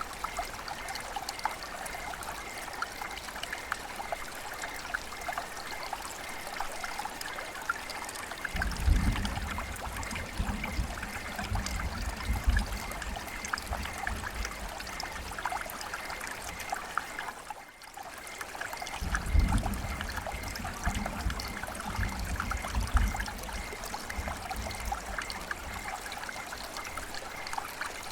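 River water flowing and trickling, with many small splashes over a steady rush. A deeper low rumble swells in twice, about a third of the way in and again just after the middle.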